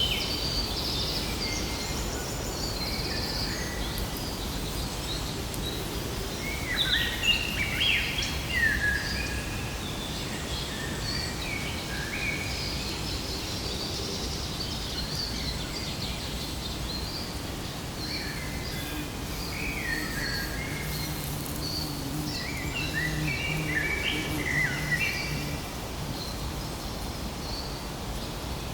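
Many birds chirping, with repeated short calls that come in busy clusters over a steady low background noise.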